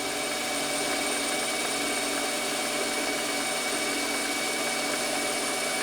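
Metal lathe running steadily, a constant machine hum with a faint high whine over a hiss.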